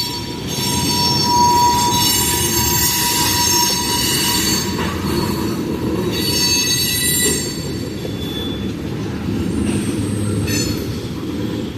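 Freight train tank cars rolling slowly through a curve, their wheels squealing and scraping on the rail: several steady high-pitched tones that fade in and out over a low rumble. The squeal comes from the curved section of track.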